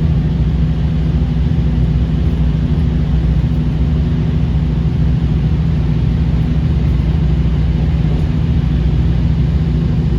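Diesel engine of a KiHa 40 series railcar running steadily with an even low hum that stays unchanged, as when idling.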